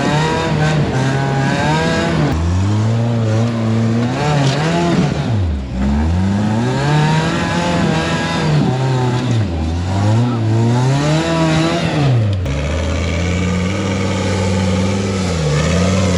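An off-road rock-crawling truck's engine is revving hard under throttle, pitch climbing and falling as the driver stays on the gas. The revs drop off sharply and pick up again about four times.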